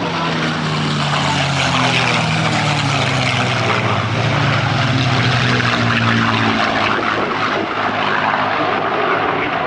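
Propeller-driven WWII warbird flying past, a steady engine-and-propeller drone whose pitch slowly falls as it goes by.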